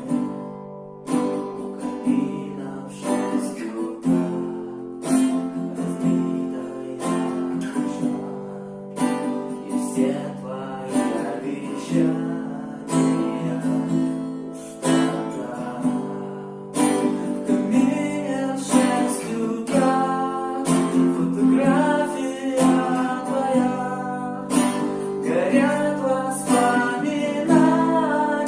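Acoustic guitar strummed in a steady rhythm, chords struck about once a second at first and more busily later. From about halfway through, a voice sings the melody over it.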